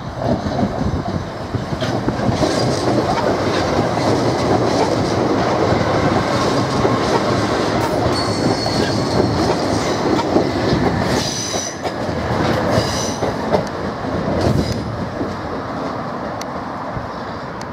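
Class 377 Electrostar electric multiple unit passing close by: a steady rumble of wheels on rail with clicks as the wheels cross joints and points. For a few seconds in the middle there are high, whistling tones of wheel squeal.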